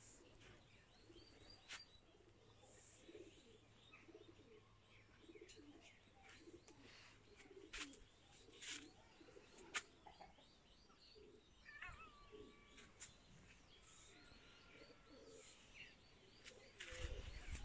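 Faint outdoor birdsong: low calls repeating again and again, with scattered higher chirps and a few sharp clicks. A low rumble comes in near the end.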